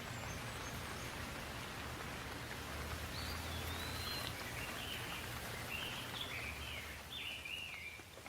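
Steady rain falling, with a low rumble underneath, and a songbird singing a string of short chirping phrases from about three seconds in until near the end.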